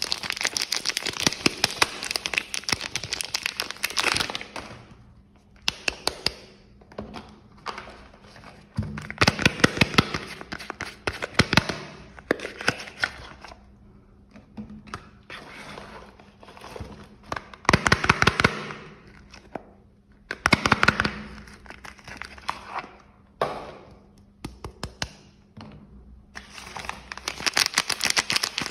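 Soap packaging being unwrapped by hand: plastic and paper wrapping crinkling and crackling in several bursts of a few seconds each, with light taps and clicks between them.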